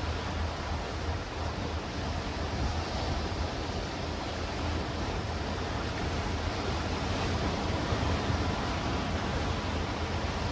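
Sea waves washing and breaking against black rocks and stones in a steady surf, with wind on the microphone adding a low rumble.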